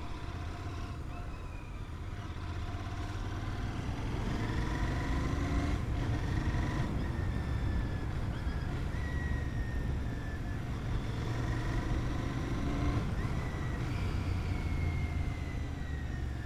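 Royal Enfield Continental GT 650's parallel-twin engine running while riding in traffic, a steady low rumble whose pitch rises and falls slowly as the speed changes.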